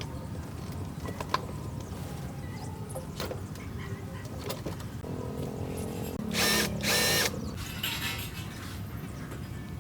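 A power tool runs in two short bursts, one right after the other, about six and a half seconds in, over a steady low workshop rumble with scattered clicks and knocks.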